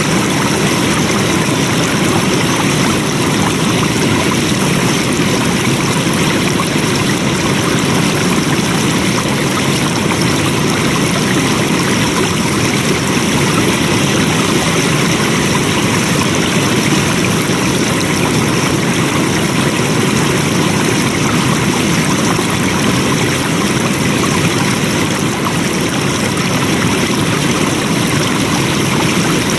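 Flowing water: a stream rushing steadily, an even, unbroken wash of sound.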